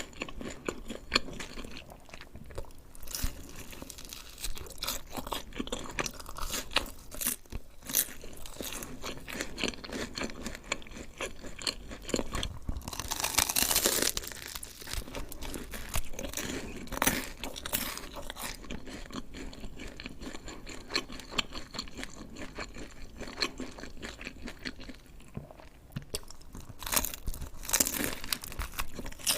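Close-miked ASMR eating sounds: a person chewing and crunching, with many small wet clicks and a louder, longer burst of noise about halfway through.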